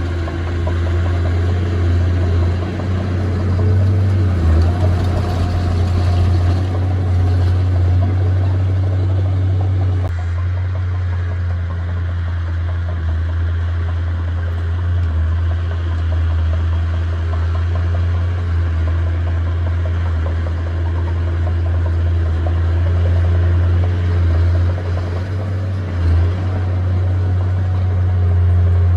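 Diesel engine of heavy earthmoving machinery running steadily with a low drone. The sound shifts abruptly about ten seconds in.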